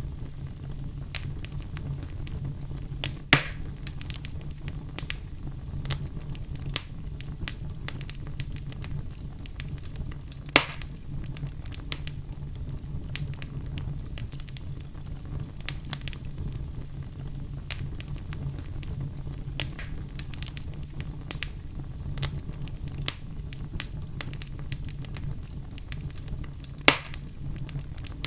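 Wood fire burning in a fireplace: a steady low rumble of flame with frequent small crackles and three louder pops, about three seconds in, about ten seconds in and near the end.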